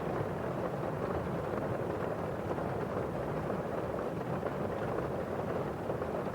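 Steady rain on a window pane: a dense patter of drops on the glass over the muffled rush of rain outside, even and unbroken.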